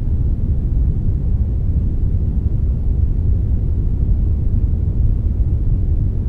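Steady synthetic brownish noise, a blend of brown and white noise: an even, unchanging deep rumble with only a faint hiss above it.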